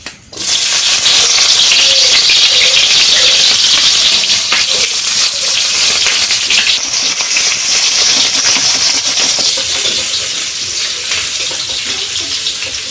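Chopped onion tipped into hot oil in a pan, sizzling loudly all at once, then frying on steadily as the sizzle slowly eases toward the end. Light scrapes of stirring run through it.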